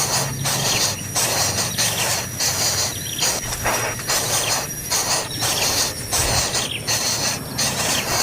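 Insects chirring in a continuous pulsing din, with a thin steady high-pitched trill over it.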